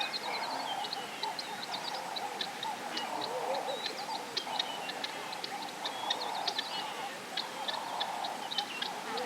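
A dense chorus of wild birds calling together, with many quick, high chirps and ticks over a lower band of wavering, warbling calls.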